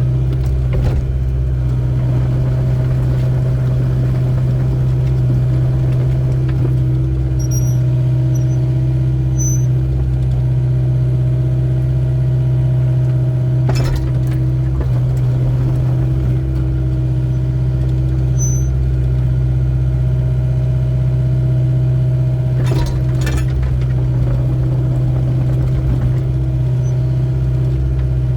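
Excavator's diesel engine running steadily under work, with a few sharp knocks about halfway through and again near the end.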